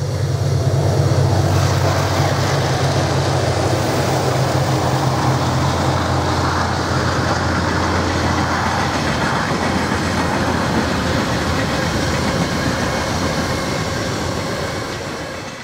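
1909 A & G Price-built NZR A class 4-6-2 steam locomotive A 428 standing with steam hissing steadily from around its cylinders, over a steady low hum. The sound fades out near the end.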